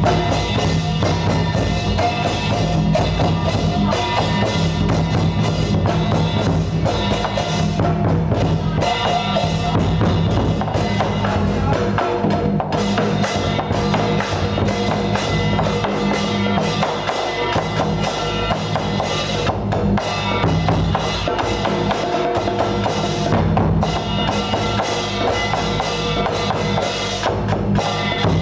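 Percussion music with drums and wood-block knocks playing without a break over steady low tones.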